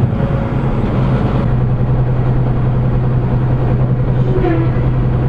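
Vehicle engine and road noise while driving, a steady, loud drone. A short, faint pitched sound comes about four and a half seconds in.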